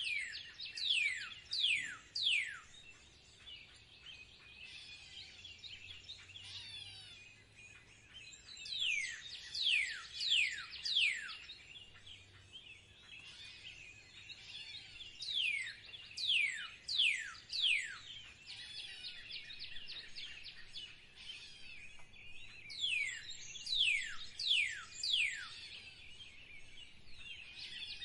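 Wild birds singing: one bird repeats a phrase of four or five sharply falling whistles about every seven seconds, over steady twittering chirps from other birds.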